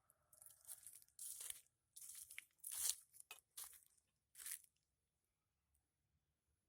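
Faint irregular crunching and rustling noises: a quick run of short scrapes for about four and a half seconds, then they stop.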